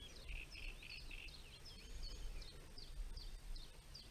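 A songbird singing faintly: a run of short high chirps followed by quick down-slurred notes, about two a second, over a low steady rumble.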